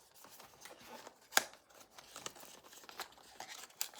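Blind-box packaging being handled and opened by hand: scattered light clicks and crinkling of cardboard and plastic, with one sharper snap about a second and a half in.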